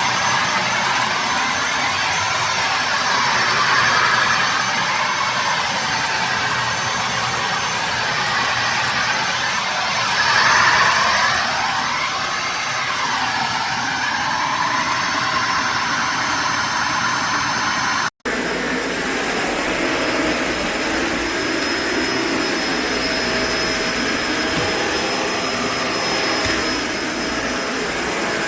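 Kenmore BU4050 bagged upright vacuum cleaner running steadily with a high motor whine, its tone wavering up and down. It cuts off for an instant about eighteen seconds in, then runs on with a slightly different tone.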